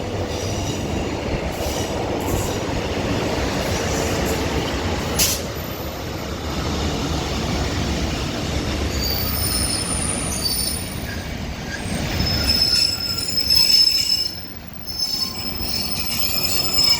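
Northern two-unit diesel train (Class 156 leading a Class 150) running into the platform with a steady low rumble. A sharp click comes about five seconds in. From about halfway, high-pitched steady squealing rides over the rumble, typical of wheels and brakes as the train slows to a stop.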